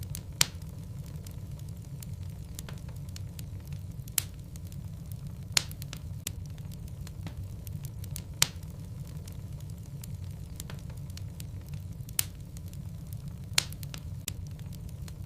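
Logs burning in a fireplace: a steady low rumble of flame with sharp wood crackles and pops scattered irregularly, about six louder pops standing out.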